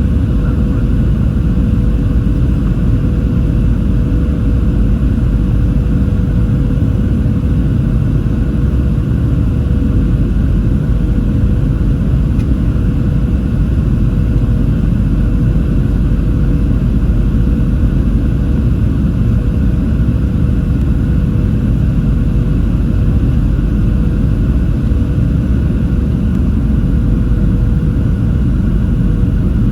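Cabin noise inside a Boeing 737-700: the steady rumble of its CFM56 engines and airflow, with a constant hum held on one pitch.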